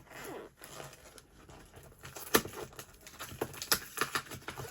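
Parcel packaging being handled and pulled open: crinkling and tearing with a run of sharp clicks, the loudest a little over two seconds in.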